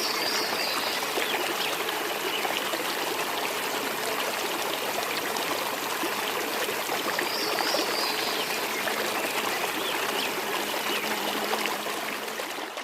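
Water rushing steadily over rocks in a waterfall stream, with two brief high chirps over it. It fades out near the end.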